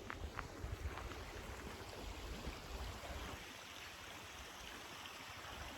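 Wind rumbling and gusting on the microphone over a steady outdoor rushing noise, with a few footsteps in the first second.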